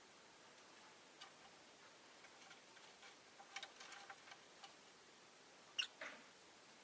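Faint, scattered light clicks and ticks over quiet room tone, a small cluster of them midway and one sharper click shortly before the end.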